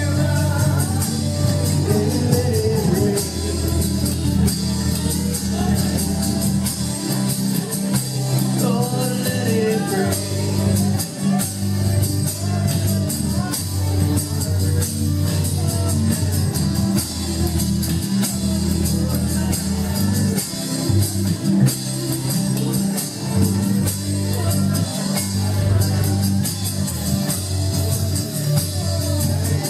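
Live worship band of electric guitar, keyboards and drums playing a steady, loud groove, with a voice singing over it in the first part.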